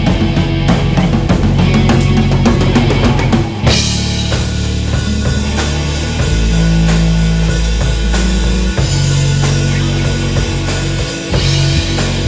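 Live instrumental rock jam: a drum kit playing a busy beat over held electric bass notes, with guitars. About three and a half seconds in, the drumming changes and a ringing cymbal wash comes in.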